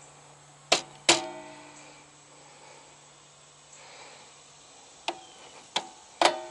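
Sharp metallic clicks, each ringing briefly: a pair about a second in, then three more near the end. A faint low hum stops right after the first pair. These are the clicks of electrical switching on the air conditioner's faulty breaker, which is about to be judged bad.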